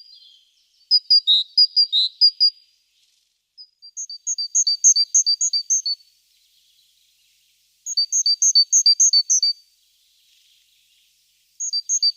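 Great tit singing: four short phrases of a repeated high-low two-note 'tea-cher' motif, each about one and a half to two seconds long, separated by short pauses.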